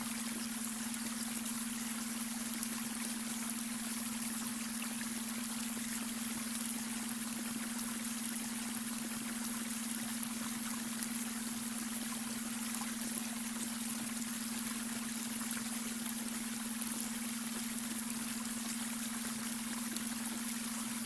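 Babbling brook: a steady rush and trickle of flowing water, with a steady low hum underneath from a beta-wave brainwave tone.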